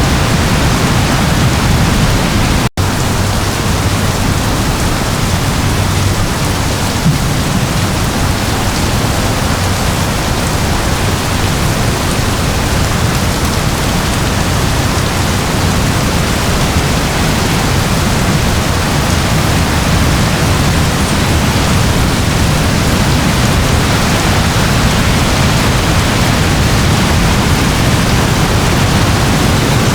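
Steady rain, an even hiss across the whole range with no break in intensity, except for a momentary dropout in the audio about three seconds in.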